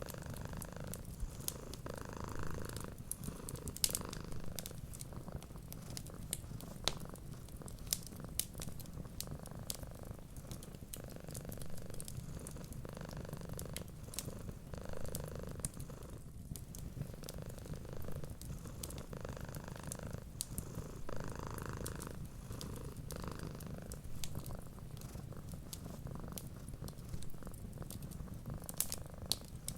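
Cats purring steadily, with scattered sharp crackles and pops from a wood fire.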